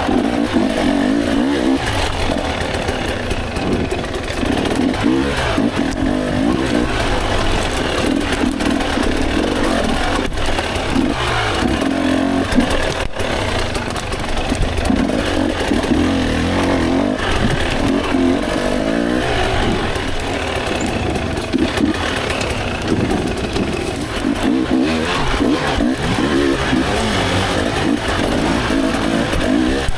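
Dirt bike engine revving up and down continuously, its pitch rising and falling with the throttle, with a few sharp knocks.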